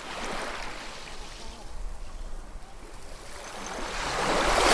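Ocean waves washing on a shore: a small wash just after the start, a lull, then a bigger wave building and breaking near the end.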